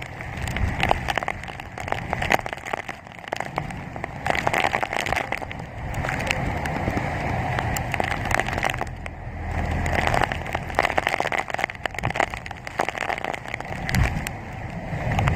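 Typhoon wind and heavy rain: gusts swelling and easing every few seconds, with a low rumble of wind buffeting the microphone and many sharp ticks of rain striking nearby surfaces.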